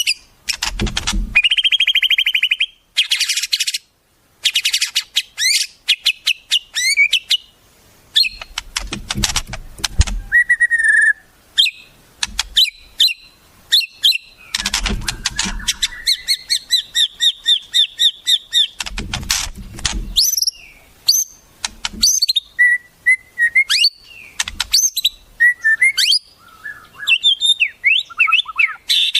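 Wild birds singing in quick succession: fast chirps, rapid trills and whistled phrases that change every few seconds, with a few low thumps in between.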